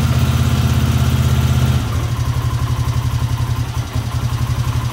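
Four-wheeler (ATV) engine idling shortly after a cold start. About two seconds in, the idle drops in loudness and its beat turns more uneven.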